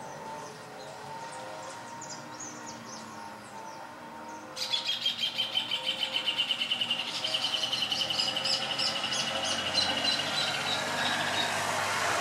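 Small bird chirping: faint scattered chirps, then from about four seconds in a loud, rapid run of chirps on a high, slightly falling note for about seven seconds. A vehicle passes near the end.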